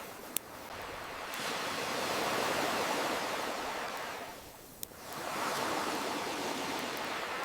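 Ocean waves washing in, swelling and ebbing in slow surges, with two sharp pops of a crackling campfire, one near the start and one a little past halfway.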